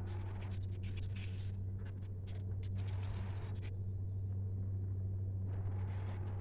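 Paper being handled, with rustling, crinkling and small clicks coming and going, over a steady low electrical hum.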